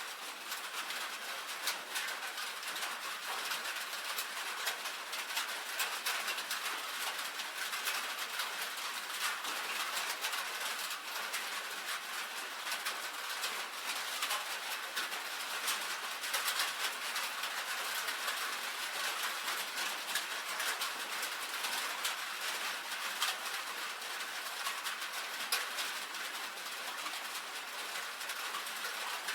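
Rain falling on a tin roof: a dense, steady patter of many small drop taps.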